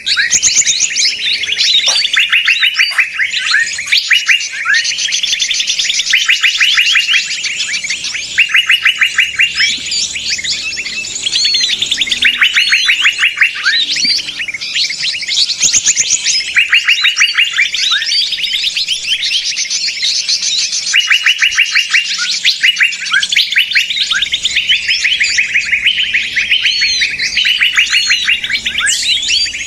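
Bird-trapping lure recording of a noisy mixed flock of small songbirds: many birds chattering at once, with fast trills repeated every second or so over a busy layer of chirps.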